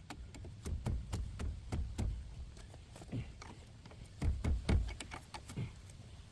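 Metal clanks, taps and knocks of hand tools and brake parts being worked on a rusty brake assembly: scattered sharp clicks, with heavier thuds about a second in, at two seconds and around four and a half seconds.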